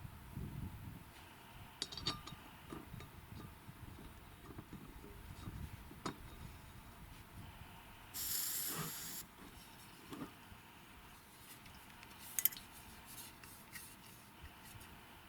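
Scattered light clinks and knocks of small objects being handled, with a short hiss lasting about a second around eight seconds in.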